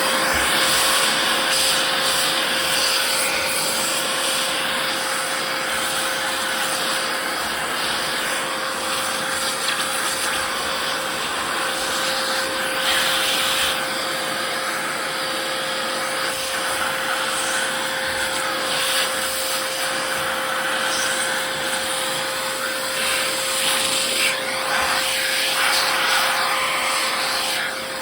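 Vacuum cleaner running steadily, a loud rushing noise with a constant whine, drawing dust out of an old box fan.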